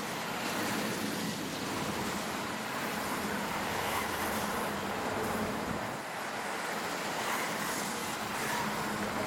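Steady noise of a freight train's wagons rolling past, steel wheels running on the rails. The wagons are low flat cars carrying articulated lorries on a RoLa rolling-highway train.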